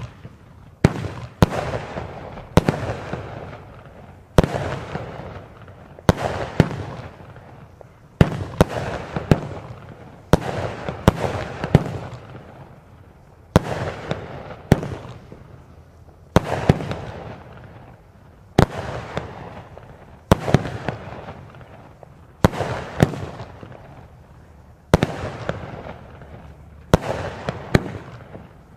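Vulcan Soul Crushers multi-shot firework cake firing a barrage: sharp bangs every one to two seconds, sometimes two close together, each followed by a crackling, hissing tail that fades away.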